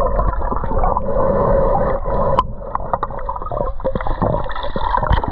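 Water gurgling and sloshing close to the microphone, muffled, with scattered knocks from about halfway through.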